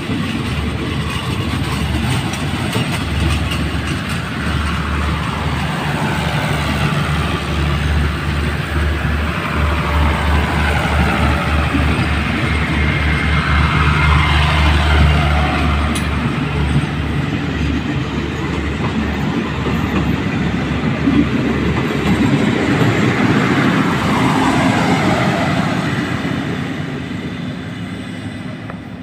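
Passenger train coaches rolling past at close range, the wheels clacking in a steady rhythm over the rail joints. The sound fades away near the end as the last car moves off.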